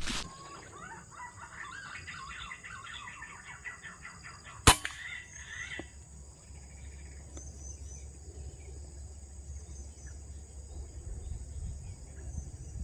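Birds chirping in quick repeated calls, then a single sharp report from a .177 PCP air rifle about four and a half seconds in; the chirping stops soon after.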